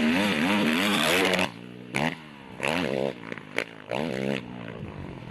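Motocross bike engine revving hard with a rapidly wavering pitch; about a second and a half in it drops away, and several short bursts of revving follow, each rising and falling in pitch.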